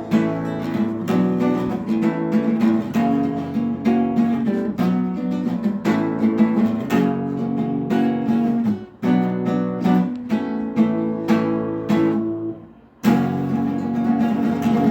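Instrumental music led by a strummed acoustic guitar. It fades out briefly about two seconds before the end, then comes back.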